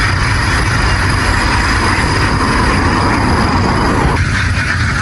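Steady, loud mix of a motor running and a large flock of ducks calling together.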